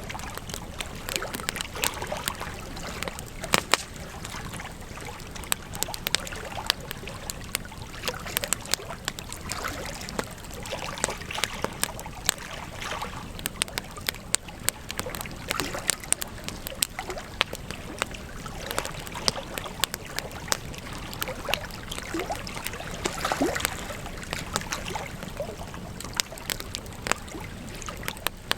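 Campfire crackling: irregular sharp pops and snaps of burning wood over a steady low hiss of flame.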